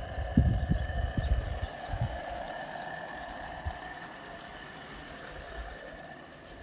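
Wilesco Lucas live-steam model locomotive hissing steadily with escaping steam, fading slightly towards the end. A few low thumps sound in the first two seconds.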